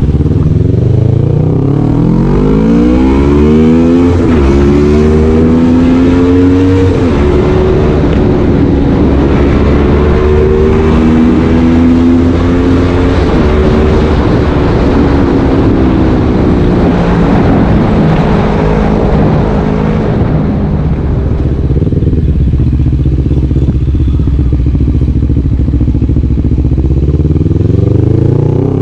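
CF Moto NK400 parallel-twin engine through an aftermarket Akrapovic exhaust, pulling up in pitch twice with a drop between, holding high, then easing back to a lower steady note about two-thirds through and climbing again at the end.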